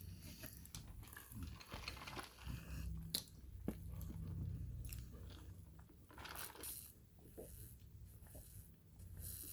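Close-up chewing and crunching of microwave-baked cornstarch chunks, with scattered sharp crunches and short crackly bites.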